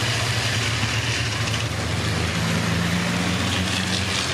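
Racing trucks' diesel engines running on track: a steady low drone over road and engine noise, with one tone rising slightly in pitch midway.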